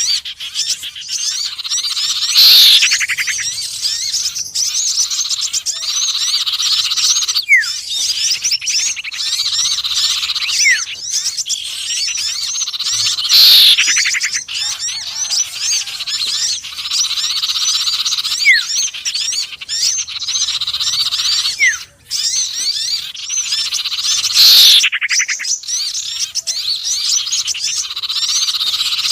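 Bird-lure recording of small songbirds (sirtu, konin and sepah raja) calling together: a dense, continuous twittering of high chirps, with a louder falling call about every eleven seconds, as the mixed track loops.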